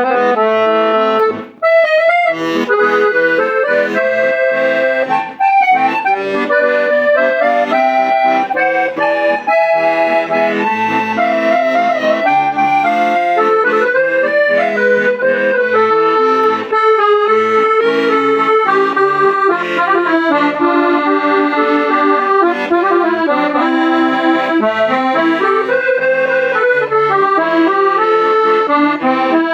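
Hohner Morino IV S accordion played in a sound test: a melody over sustained chords, continuous apart from a brief break about a second and a half in.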